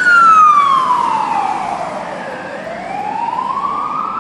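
Fire engine siren wailing: one slow, loud tone that falls steadily in pitch, bottoms out a little past halfway, then climbs again.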